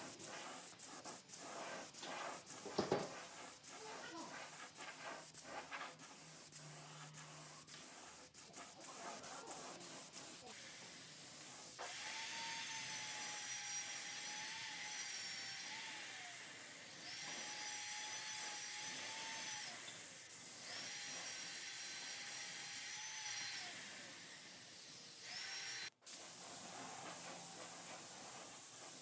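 Workshop tool handling, with scraping, clicks and one sharp knock about three seconds in. This is followed by a small electric power tool running in three bursts of a few seconds each, its steady whine sagging slightly and picking up again at the end of each burst.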